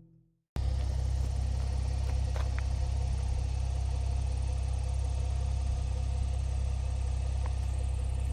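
Steady low rumble that starts abruptly about half a second in and holds at an even level throughout.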